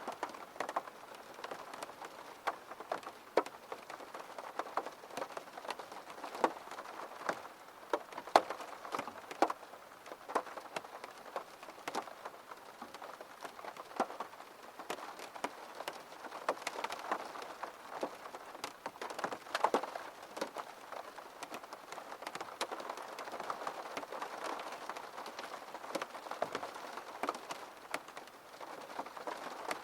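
Steady rain falling, with frequent irregular sharp taps of individual drops striking a hard surface.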